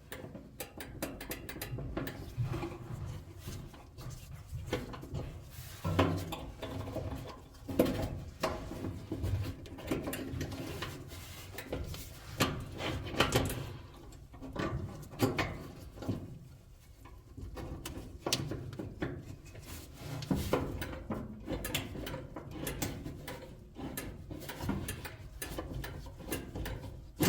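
Irregular knocks, clicks and clatter of tools and metal parts being handled during appliance repair work, with no motor running.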